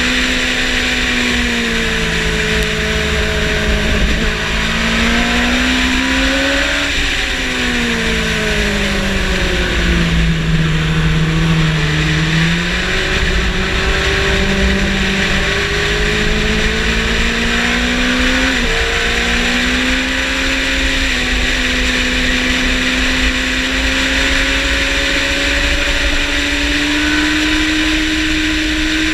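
Yamaha motorcycle engine at track speed, rising and falling in pitch through the gears and corners, dropping sharply at upshifts about seven seconds in and again near nineteen seconds, over a steady rush of wind noise.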